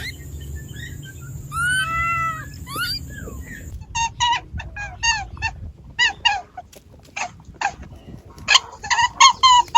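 A cat meows once, about two seconds in. Then, after a cut, a different animal gives runs of short, high, falling chirps in quick succession.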